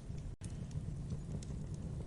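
Wood fire in a fireplace crackling: irregular sharp pops and snaps over a steady low rumble of the flames, with a split-second gap in the sound just under half a second in.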